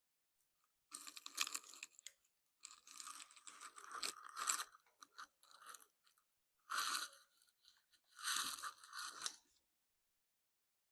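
Rubbing and scraping of parts being handled, in four bursts with short gaps between them.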